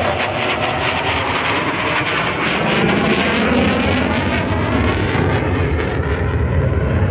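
Military jet aircraft flying past overhead at an air show display: a loud, steady jet-engine rush whose low end builds up towards the end.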